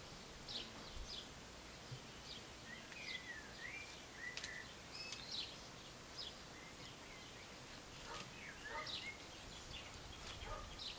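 Small birds chirping: scattered short, high chirps and a few quick gliding whistled notes, over a faint steady background hiss.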